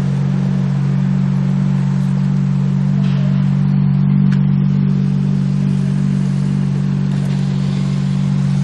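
Mazda 323F Lantis's KF-ZE V6 engine idling steadily, freshly started after three months standing unused.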